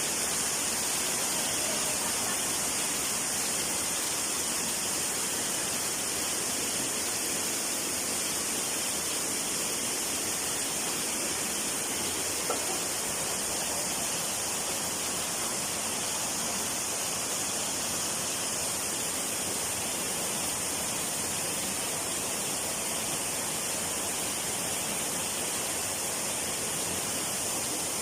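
Waterfall rushing steadily, a constant hiss of falling water, with a faint click about halfway through.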